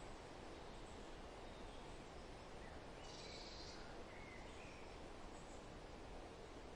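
Faint forest ambience: a steady rustle of wind through the trees with a few scattered distant bird chirps, and a brief high-pitched call about three seconds in.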